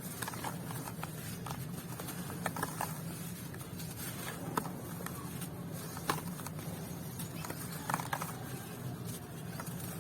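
Dry, dusty clumps crumbling apart, heard as scattered small crackles and soft taps at an irregular pace, over a steady low hum.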